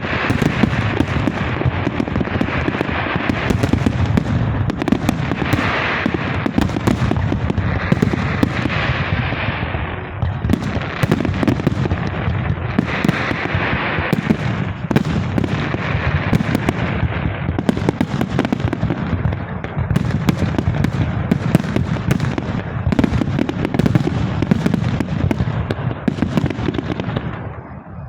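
Fireworks display: aerial shells bursting in a dense, continuous barrage of bangs and crackling, easing briefly near the end.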